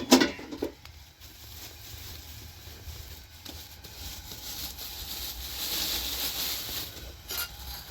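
Metal pot and utensils clinking a few times at the start, then a fainter steady hiss with a low rumble and a few soft ticks.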